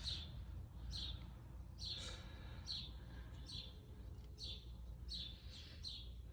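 A bird chirping over and over, one short high chirp a little under every second, over a steady low rumble.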